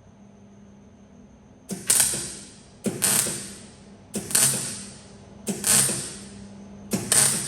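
A workshop tool making five short hissing bursts about 1.3 seconds apart, each starting with a sharp click and fading away, over a faint steady hum.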